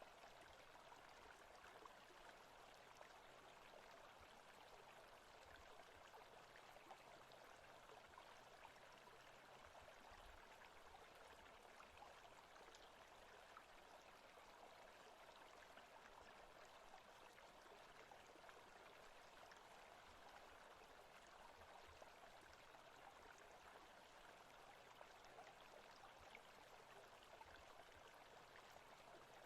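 Faint forest-ambience background track: a steady, even rush of noise with no distinct events.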